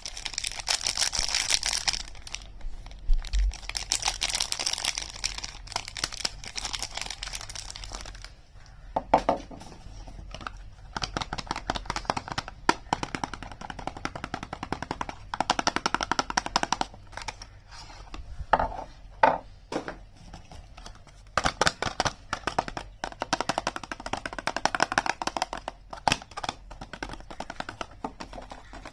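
Plastic and paper packaging crinkling and crackling as soaps are unwrapped by hand, in stretches of a few seconds with short pauses between them.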